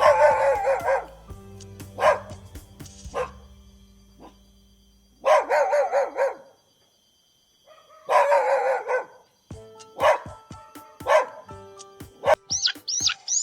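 A dog barking, in a string of separate bouts with short, sharp single barks near the end.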